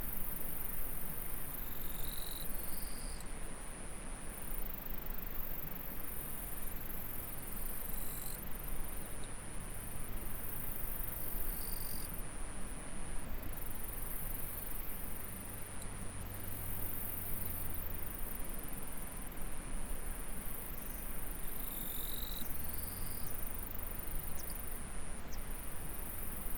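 Insects trilling in one high, continuous note that breaks off briefly every second or two, over the steady rush of a small stream beside rice paddies.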